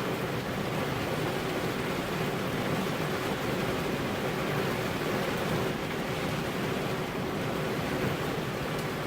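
Rain falling steadily on a car's window glass: an even hiss of many drops, with no change in strength.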